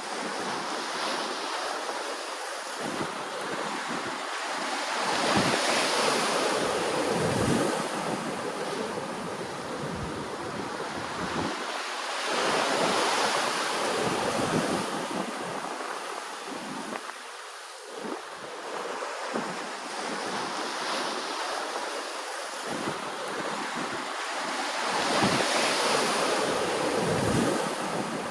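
Ocean waves washing in, a steady rush of surf that swells and eases in slow surges several seconds apart.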